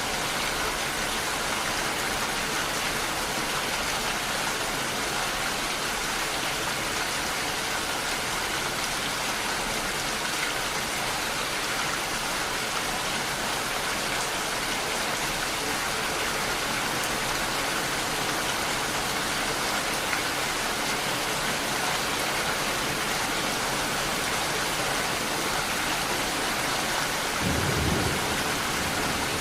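Steady rain falling hard and evenly, with a brief low rumble near the end.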